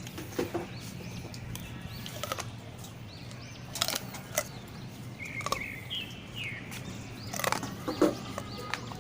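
Small birds chirping in short twittering phrases, over a steady low hum, with a few sharp clicks or knocks around the middle and near the end.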